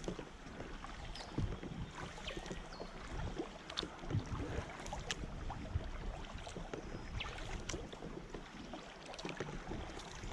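Kayak paddling on a river: paddle blades dipping and splashing in the water with steady water noise, and a few short high whistled notes.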